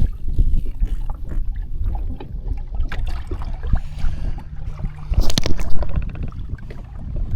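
Wind buffeting the microphone and water sloshing around a jet ski, with a low steady hum for about a second near the middle. A loud rush of noise follows about five seconds in.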